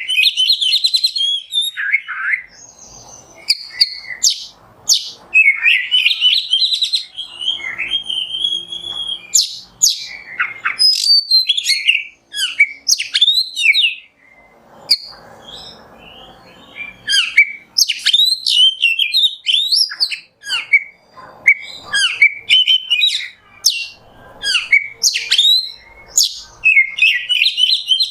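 Oriental magpie-robin (kacer) singing a loud, varied song of rapid gliding whistles and chirps, phrase after phrase, with brief pauses.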